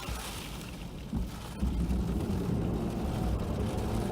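Plow truck's engine heard from inside the cab, getting louder about one and a half seconds in as the four-wheel drive kicks out and the truck loses its pushing power on the ice.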